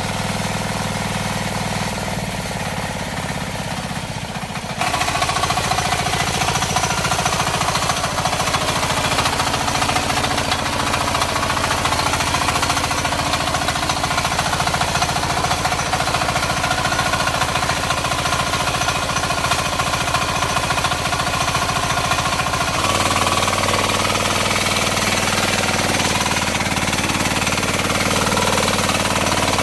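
Power weeder's 9 HP diesel engine running with a rapid, hammering beat. It gets louder about five seconds in and changes pitch again near the end.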